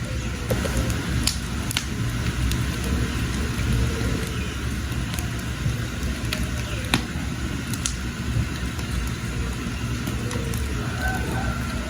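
Wood fire burning with a steady low rumble, broken by sharp crackles and pops from the burning firewood every second or so.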